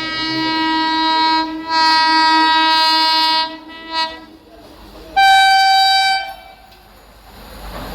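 Indian electric locomotive horn sounding repeatedly: a long blast, then a louder one lasting until about three and a half seconds in, and a brief toot around four seconds. Just after five seconds comes a higher-pitched blast of about a second, and a low rumble builds near the end.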